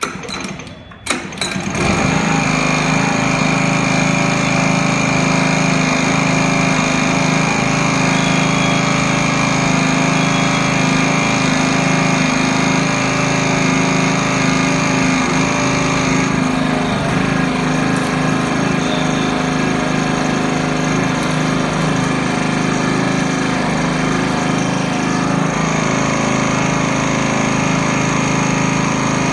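Small Honda petrol engine on a sugarcane juice machine: after a couple of short bangs it comes in about two seconds in and then runs loud and steady at constant speed.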